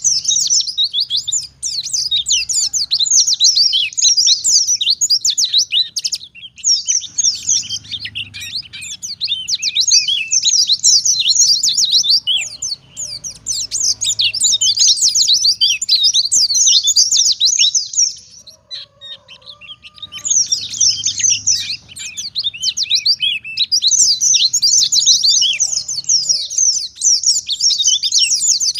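A white-eye (pleci) singing a fast, high twittering song in the rapid-fire "nembak" wild style, in long unbroken phrases with brief pauses about six seconds in and again near nineteen seconds in.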